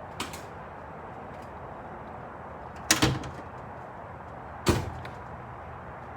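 Three sharp bangs: a light one at the start, a loud double bang about three seconds in, and a loud single bang about a second and a half later, over a steady background hiss.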